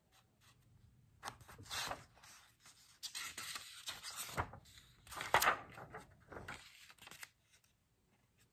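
A stiff board-book page being handled and turned: a run of rustles and scrapes of cardboard pages against each other and against the hand, loudest about five seconds in.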